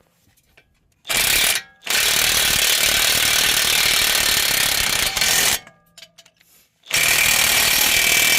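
Impact wrench with a 32 mm socket hammering an axle nut tight, in three bursts: a short one, a long one of about three and a half seconds, then a shorter one near the end, until the nut is locked in.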